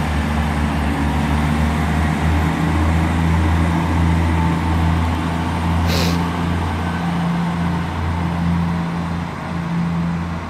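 Class 158 diesel multiple unit pulling away from the platform, its underfloor diesel engines giving a steady low drone. A brief high hiss sounds about six seconds in.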